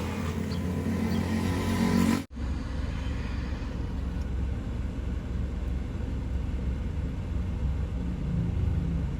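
A moving car's engine and road noise: a steady low rumble, cut off abruptly about two seconds in, then resuming.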